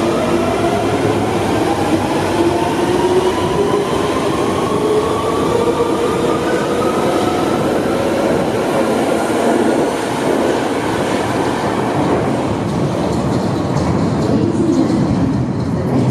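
Central Line 1992 stock tube train pulling away from the platform. Its traction motors give a whine that rises steadily in pitch over the first several seconds, over a loud rumble of wheels on rail.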